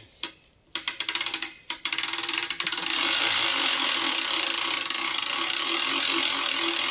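A ratcheting mechanism clicking while the log is being moved: a few separate clicks at first, then a fast, unbroken run of clicks from about three seconds in.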